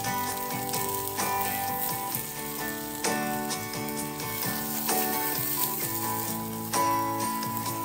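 Background music with steady notes, over a continuous sizzling hiss of food frying in a pan.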